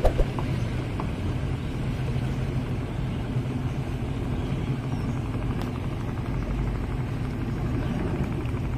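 Twin Yamaha 200 hp two-stroke outboard motors running steadily under way, a low even drone with water and wind noise.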